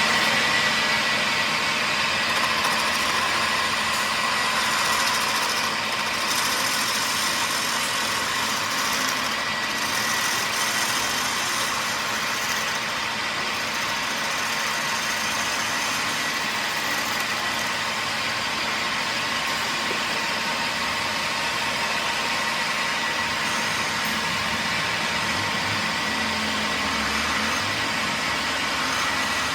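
A workshop power tool's motor running steadily under load, a dense, even noise with a thin high whine over it, starting just before and holding without a break.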